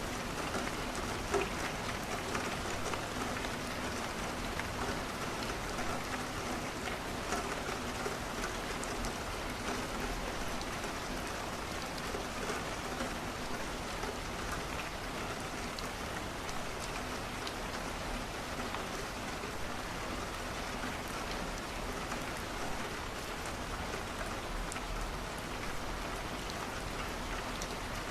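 Steady rain falling on a window, with the faint scattered crackle of a wood fire burning in a fireplace.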